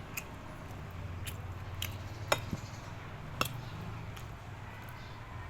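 Kitchen utensils clicking and tapping now and then, about five sharp taps, over a low steady hum.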